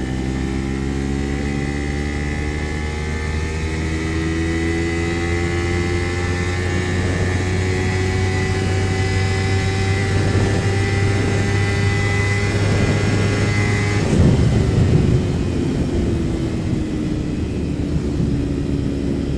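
Kawasaki Ninja 300's parallel-twin engine running under steady throttle while riding, its note slowly rising for about fourteen seconds, then changing abruptly and settling lower, as at a gear change or throttle roll-off.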